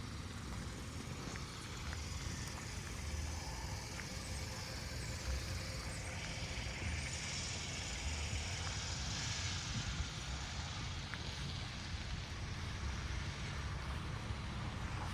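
Wind rumbling on the microphone over a steady outdoor hiss, with a few faint short chirps.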